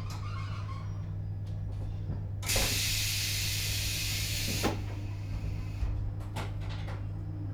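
Interior running sound of a JR Hokkaido 721-series electric train's Toshiba GTO-inverter motor car: a steady low rumble, with a loud burst of hissing air that starts sharply about two and a half seconds in and cuts off about two seconds later.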